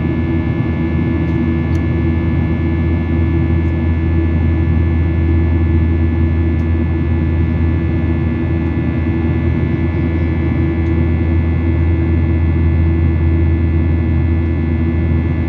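Steady airliner cabin noise: the jet engines and airflow make an even low drone with several steady hums above it, heard from inside the passenger cabin.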